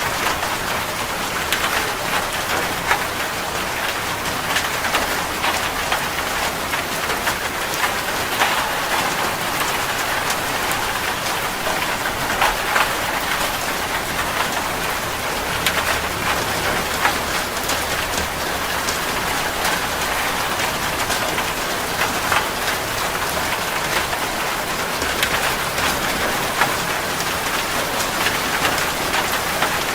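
Heavy rain falling steadily on a metal roof: a constant hiss thick with the sharp ticks of individual drops striking the metal.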